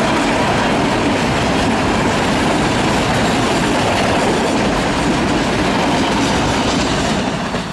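Open-top freight wagons of a freight train rolling past at close range: a loud, steady rumble of steel wheels on the rails, beginning to fade near the end as the last wagons go by.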